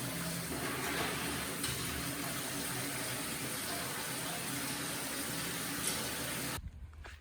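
Food cooking, a steady sizzling and bubbling hiss that cuts off suddenly about six and a half seconds in.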